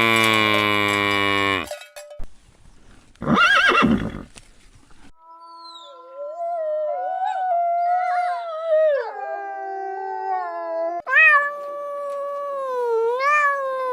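Separate animal calls cut one after another: a long bleat, a short horse whinny about three seconds in, then drawn-out howling with several voices overlapping and gliding in pitch.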